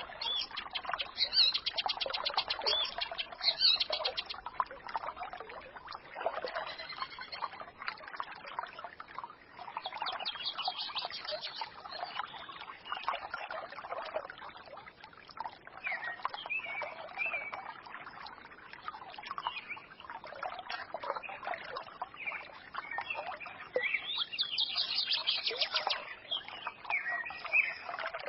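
A forest stream babbling steadily, with small birds chirping and twittering over it. Rapid high trills come about a second in and again near the end.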